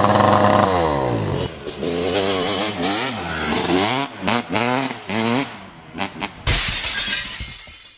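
Dirt bike engine revving: held high at first, then dropping, then a run of quick throttle blips that rise and fall in pitch. About six and a half seconds in comes a sudden burst of noise that fades away.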